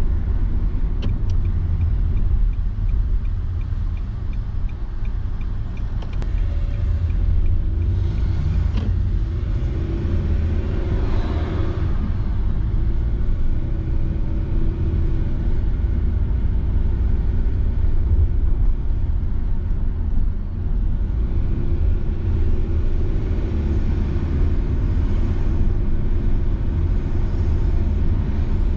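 A car being driven, with a steady low rumble of road and engine noise. A light, evenly spaced ticking runs through the first eight seconds or so.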